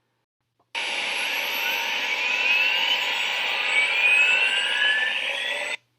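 Gearbox running amid very high factory background noise: a dense, loud hiss with several whines rising steadily in pitch and a steady tone under them. It starts suddenly about a second in and cuts off abruptly near the end.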